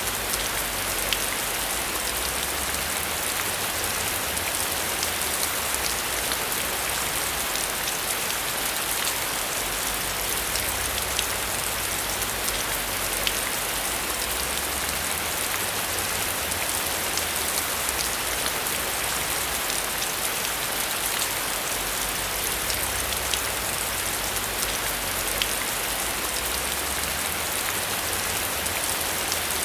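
Heavy rain on a metal roof, a steady hiss with many individual drops ticking on the surface.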